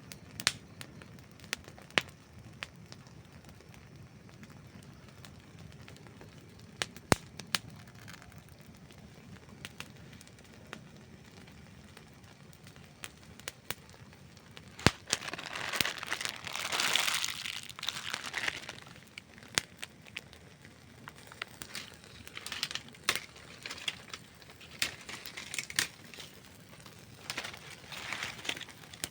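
Wood campfire crackling: sharp single pops scattered throughout, with a denser, louder run of crackling and hissing about halfway through.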